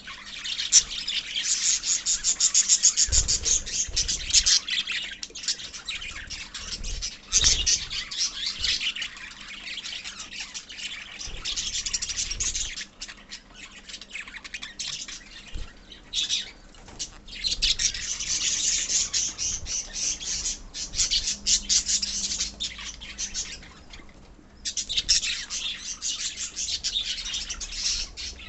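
A flock of small pet parrots, lovebirds and budgerigars, chattering together in fast, high-pitched chirps and squawks, with a couple of short lulls.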